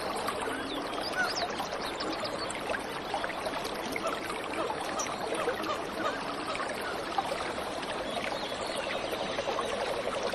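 Waterfall running steadily, with birds chirping over it throughout. Near the end a fast, rapidly repeating trill joins in.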